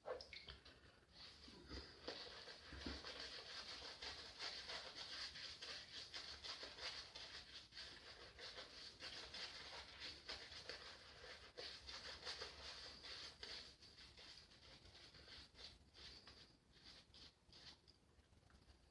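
Faint, fine crackling scrape of a vintage Faynett Lather Catcher safety razor cutting through stubble, thinning out over the last few seconds.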